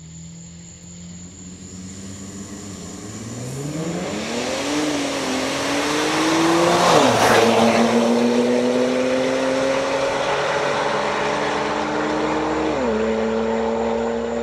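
Two Infiniti Q50 sedans racing side by side at full throttle. The engine note climbs as they accelerate, rises to a loud rush as they pass about halfway through, and then carries on as they pull away, stepping down in pitch at an upshift near the end.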